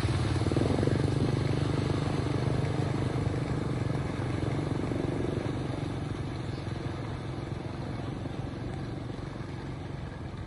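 A vehicle engine running steadily, gradually fading as it moves away.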